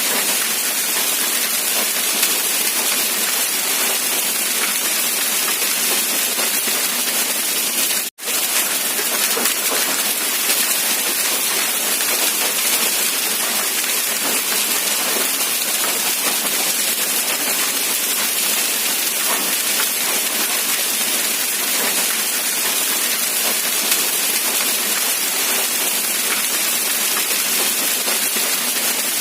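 Steady rain, an even, dense hiss of falling drops. It cuts out for an instant about eight seconds in, then resumes.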